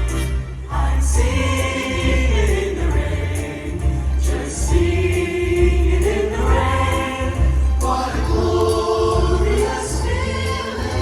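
A choir singing in harmony over musical accompaniment with a strong bass line, the sung notes held and changing every second or so.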